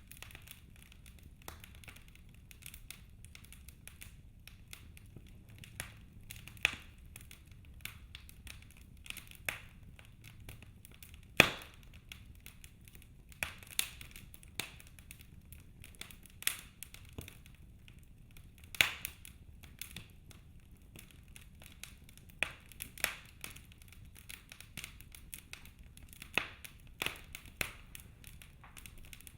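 Wood fire crackling in a fireplace: irregular sharp pops and snaps, a few much louder than the rest, over a faint low rumble.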